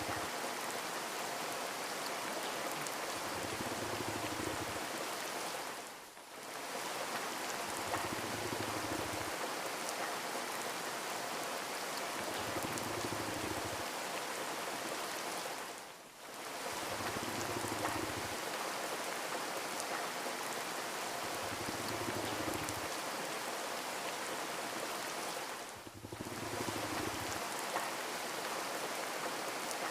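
Steady rain falling, an even hiss of drops that fades out briefly and returns about every ten seconds, with a soft low thrum swelling and fading every few seconds underneath.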